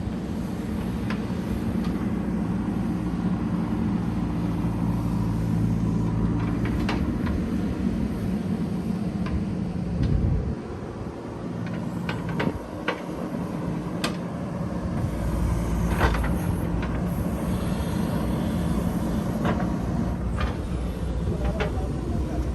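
JCB 3DX backhoe loader's diesel engine running steadily, with scattered metallic clanks and knocks. The engine note dips and breaks up for a couple of seconds about ten seconds in, then picks up again.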